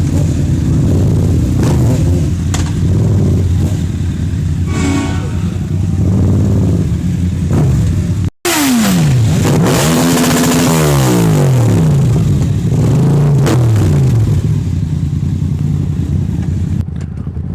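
Loud high-performance car engines revving and idling, their exhaust notes rising and falling in pitch again and again. There is a sudden brief gap a little past the middle.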